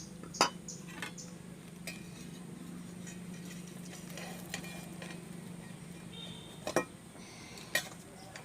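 Metal clinks and knocks of a pan lid and utensils being handled: a couple of sharp strikes near the start and two more near the end. Under them, a faint sizzle of a rice-flour pitha cooking in oil in the covered pan.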